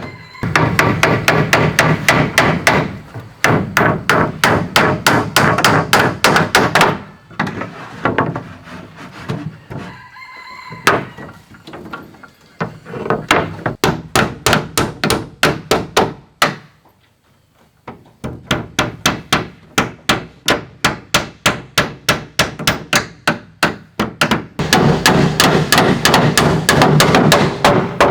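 Hammering on wood: long runs of quick, evenly spaced blows, about three to four a second, with a pause near the middle. A chicken calls during the pause.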